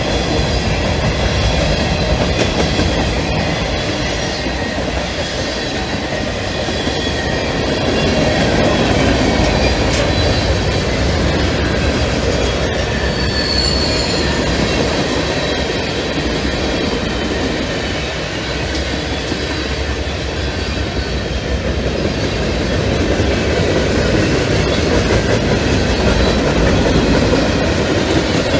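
CSX mixed freight cars (covered hoppers, tank cars, flat cars and boxcars) rolling past at track speed on welded rail: a steady, loud rumble of steel wheels on rail with faint ringing wheel tones, and a brief high-pitched wheel squeal about halfway through.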